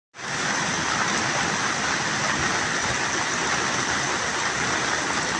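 Steady rushing water noise, even and unbroken: rain and moving floodwater.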